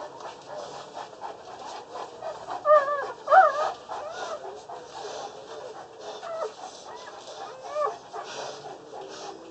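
Newborn Boerboel puppies, under a day old, squeaking and whimpering in short wavering calls, loudest a little under three and a half seconds in.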